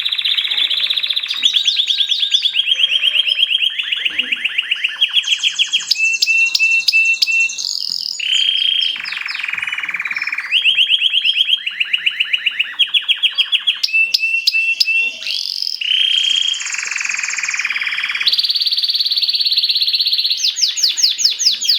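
Mosaic canary singing a continuous, high-pitched song of rapid trills, each phrase a quick run of repeated notes that gives way to a new phrase every second or so.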